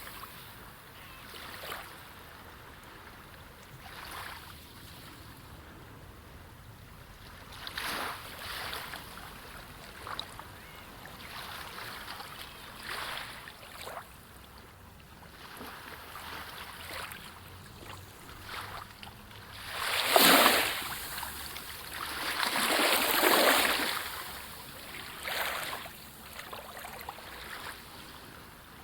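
Sea surf: waves washing in as repeated rushes that swell and fade, two larger ones close together about two-thirds of the way through.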